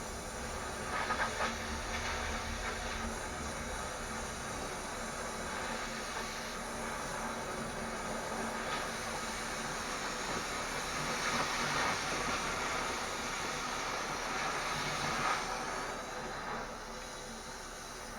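A steady hissing noise.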